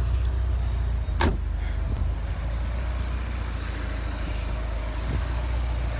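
1988 Porsche 944's four-cylinder engine idling steadily, with its air flow meter unplugged. A single sharp click sounds about a second in.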